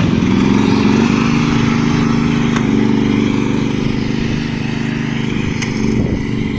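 Riding lawn mower's engine running hard while the mower is driven. Its pitch rises in the first second, then holds steady.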